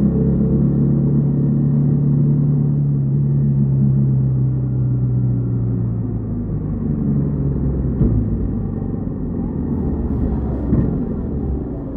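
Yamaha XTZ 150 Crosser S single-cylinder four-stroke engine running at steady revs, then easing off with a slowly falling pitch from about four seconds in and running lower and rougher afterwards. A short knock about eight seconds in.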